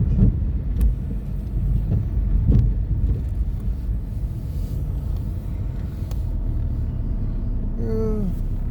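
Car cabin road noise while driving: a steady low rumble of engine and tyres, with a few light knocks and clicks. Near the end comes a short tone that falls in pitch.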